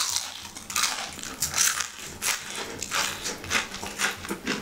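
Crunchy chewing of crispy deep-fried fish karaage: a bite, then a run of uneven crunches, several a second.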